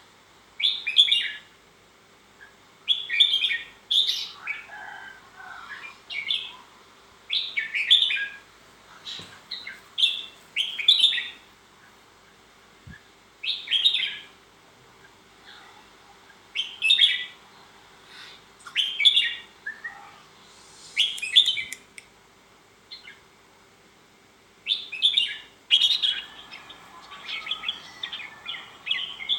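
Red-whiskered bulbul singing: short, bright whistled phrases repeated every second or two with brief pauses, the song growing busier near the end.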